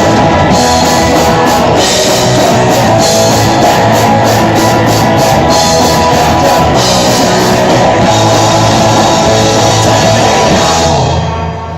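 Live rock band playing loud and steady, with drums and amplified guitars, the music dropping off right at the end.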